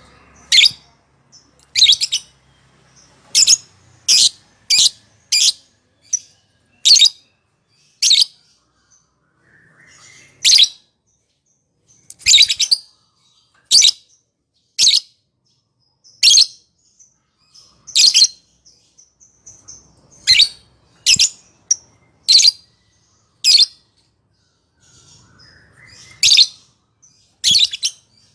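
Lovebird calling: a series of short, shrill chirps, each brief and separate, coming roughly one a second with irregular pauses.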